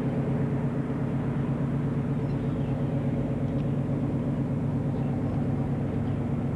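Cross-Channel car ferry's diesel engines and machinery running, a steady low drone with an even hum.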